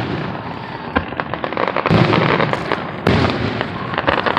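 Fireworks going off: deep booms about two seconds in and again a second later, with rapid crackling between and after them.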